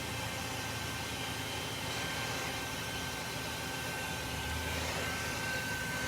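Shop vacuum running steadily with a constant high whine, used to suck a honeybee swarm off a house wall.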